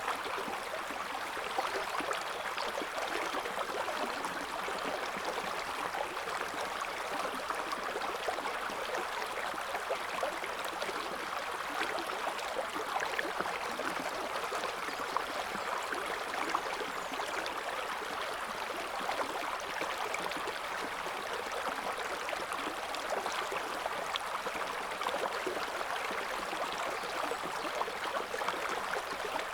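River water flowing over rocks, a steady babbling and splashing rush with constant small trickles and gurgles.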